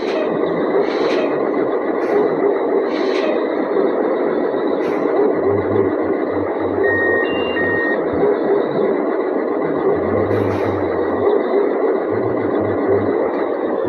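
Steady running noise of a truck, with a thin steady high whine over it. Two short beeps sound about seven seconds in.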